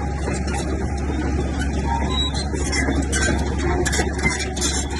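Bulldozer's heavy diesel engine running steadily under load, with irregular clanks and rattles over it.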